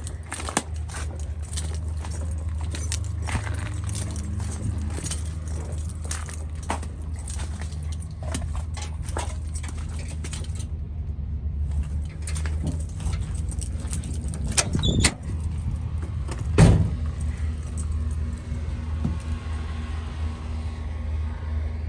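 A motor vehicle running steadily at low speed, with a constant low engine drone, and loose things rattling and clicking over it. There are two louder knocks in the second half.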